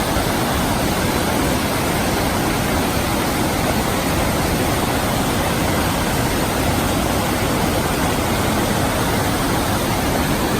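Steady rush of water from a waterfall, an even roar without a break.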